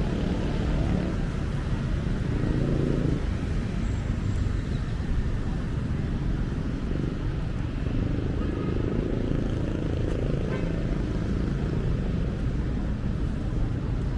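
City street traffic: a steady rumble of passing cars and motorcycles.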